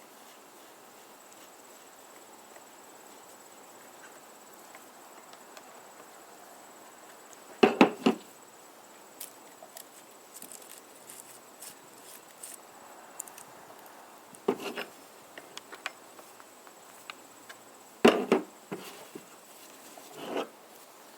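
Chainsaw bar, chain and cover being handled and fitted: a few sharp knocks and clatters of the parts, the loudest a double knock about eight seconds in, with light ticking and tapping between them.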